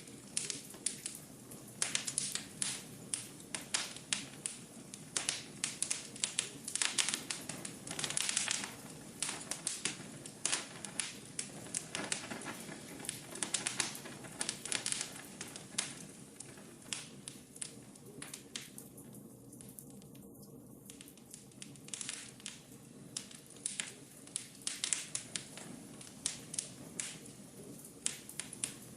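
Wood fire in a fireplace crackling, with irregular sharp pops and snaps over a steady low hiss; the pops thin out for a couple of seconds past the middle.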